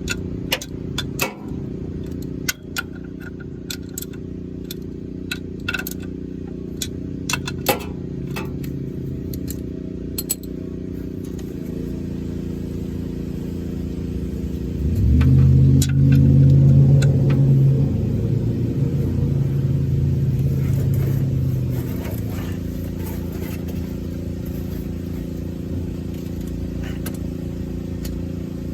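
Metal tools and parts clinking in a run of sharp taps over the first ten seconds or so, over a steady low hum. About fifteen seconds in, a louder vehicle engine sound comes up, holds for several seconds and fades away.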